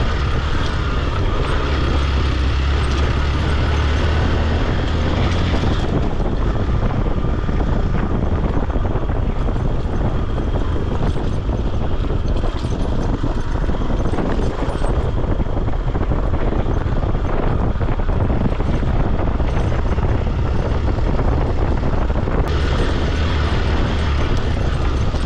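Motorcycle engine running steadily under way on a rough uphill trail, mixed with heavy wind noise. The upper hiss drops away about six seconds in and returns near the end.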